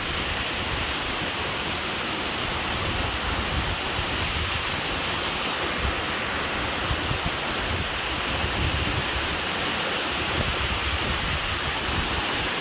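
Steady rushing noise of a large waterfall, the Diamante waterfall's water pouring down close by.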